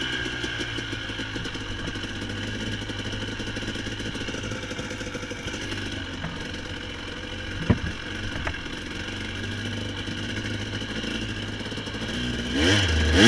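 Dirt bike engine running steadily at low speed on a trail, with one sharp knock a little past halfway. Near the end the engine revs up and down a few times.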